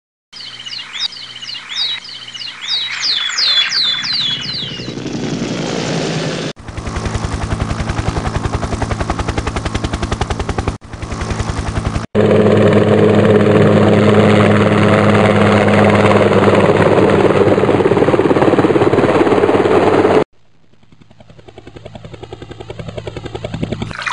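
Helicopter rotor chop, a fast steady pulsing that cuts in a few seconds in and gets louder, with a steady high whine, about halfway through. It drops away sharply, then builds again as if approaching. It is preceded by a few seconds of high, falling chirps repeating about twice a second.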